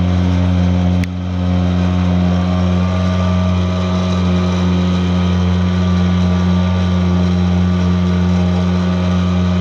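Small Tohatsu M3.5B2 two-stroke outboard motor running steadily at full throttle, pushing a heavy cabin boat. There is a brief click about a second in.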